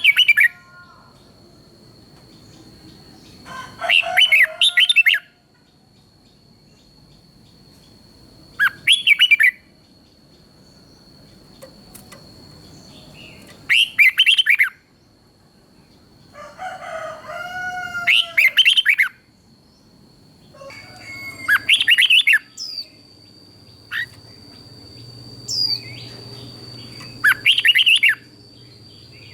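Red-whiskered bulbul singing short song phrases, one about every four to five seconds, seven in all, with a faint steady high whine beneath.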